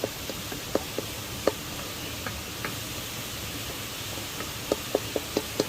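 Steady rush of falling water with a series of short, light knocks over it: scattered at first, then a quick run of about four a second near the end.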